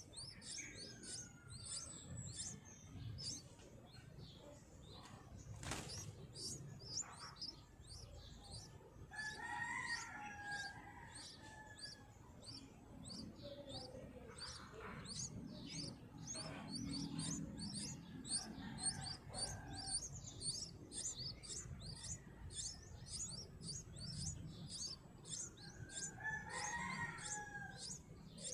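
Yellow-vented bulbuls at the nest: a rapid, steady run of short high chirps, about three a second, with a few lower, bending calls about ten seconds in and again near the end.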